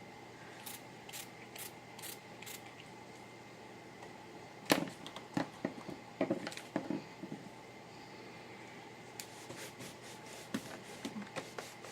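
A few quick hissy spritzes of a mist spray bottle, then clicks and knocks as rubber stamps are tapped and scrubbed on a Stampin' Scrub cleaning pad and handled on the table.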